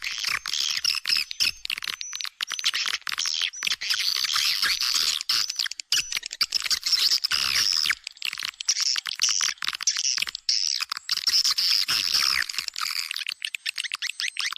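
Swiftlet calls of the kind played from swiftlet houses to lure the birds in: a dense, unbroken stream of high chirps and twitters mixed with rapid clicks, with almost no low sound beneath them.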